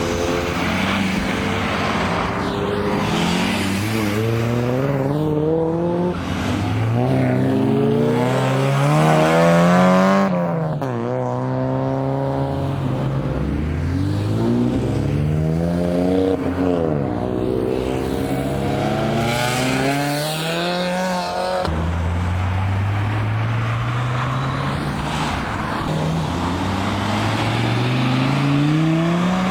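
Cars accelerating hard one after another, their engines revving up in long rising sweeps and passing by, loudest about ten seconds in.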